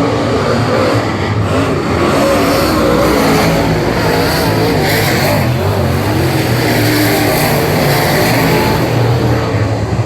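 Late model stock car's 820 hp Chevy LS V8 running hard on track, its pitch rising and falling repeatedly with the throttle.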